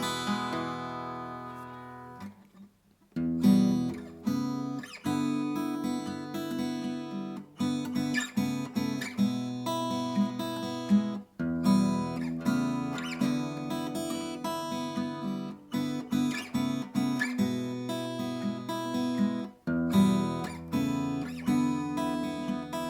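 Acoustic guitar being played. A chord rings out and fades, then after a brief pause the guitar goes into steady rhythmic strumming and picking through changing chords.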